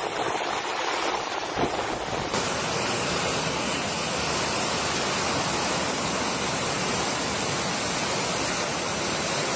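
Steady rushing of storm water, a loud even hiss without pitch, changing abruptly in tone about two seconds in.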